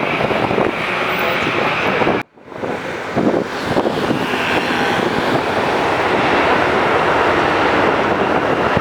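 Jet airliner's engines making a loud, steady rushing noise as it flies low overhead, with wind buffeting the microphone. The sound cuts out abruptly for a moment about two seconds in, then returns.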